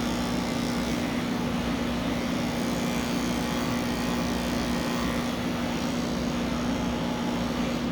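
Electric pet clippers running steadily with a constant hum while shaving a cat's coat.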